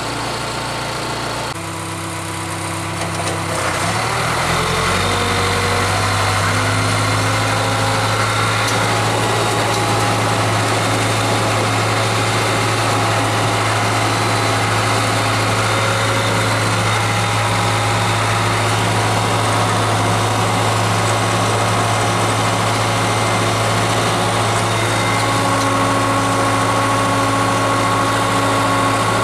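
Case 580K loader backhoe's diesel engine, just started. It picks up speed, rising in pitch from about two to six seconds in, then runs steadily.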